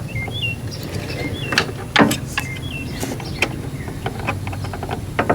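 Scattered clicks and knocks of a screwdriver working at the plastic clip on a Generac generator's throttle linkage rod, the loudest about two seconds in. Short high chirps repeat over a steady low hum.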